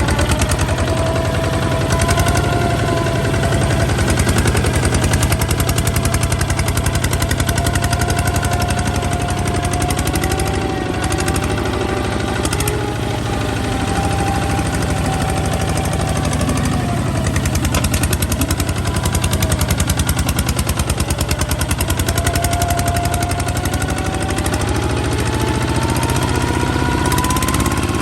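Kubota ZT155 tractor's single-cylinder diesel engine running with a rapid, even beat. A whining tone over it wavers, sags in the middle and rises near the end.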